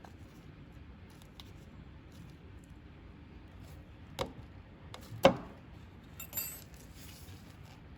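Small hard metal parts being handled on a workbench: two sharp clicks about four and five seconds in, the second the loudest, then a brief light metallic jingle.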